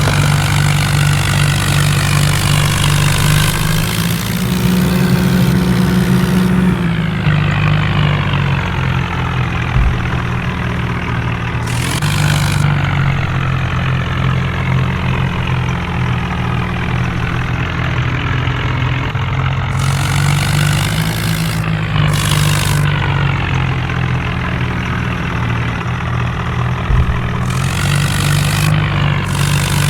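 Tractor engine running steadily, its pitch rising briefly about four seconds in and again around twenty seconds in, as if revved or put under load.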